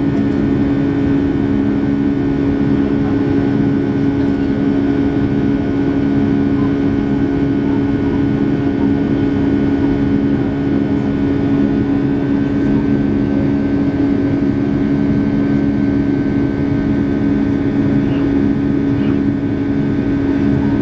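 Steady drone inside the cabin of a Boeing 757 airliner in flight: jet engine hum with a few steady low tones and a fainter high whine under an even hiss of rushing air.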